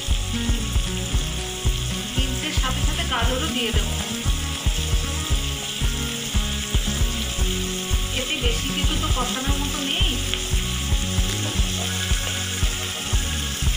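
Vegetables sizzling as they fry in a kadai while they are stirred with a metal spatula. Background music with a steady beat, about two or three thumps a second, runs underneath.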